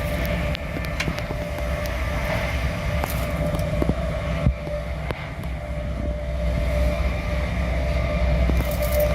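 Passenger train running along the line: a steady low rumble with a constant whine and scattered short clicks from the track.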